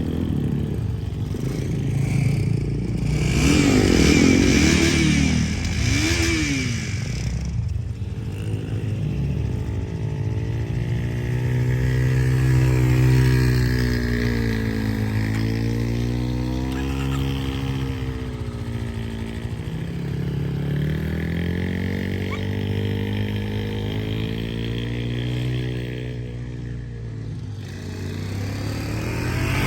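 Dirt bike engine running while riding, its revs rising and falling with the throttle, with two quick blips of revs about four and six seconds in.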